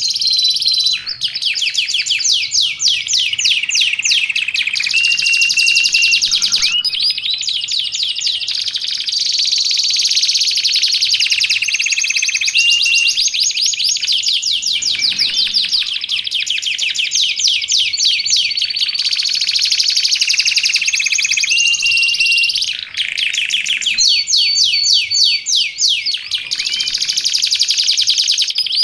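Domestic canary singing without pause: long, rapid rolling trills broken by short held whistled notes, the song used as a master recording for teaching other canaries.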